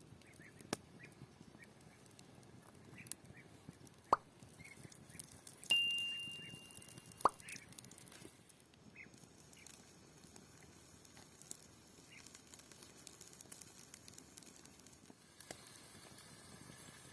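Cooking utensils knocking against cookware: a handful of sharp clinks, one about six seconds in leaving a metallic ring for about a second and a half, over faint high chirps.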